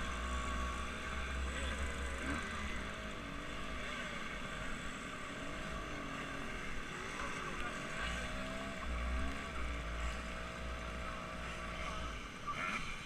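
Motorboat engine running, its pitch rising and falling, with low wind rumble on the microphone.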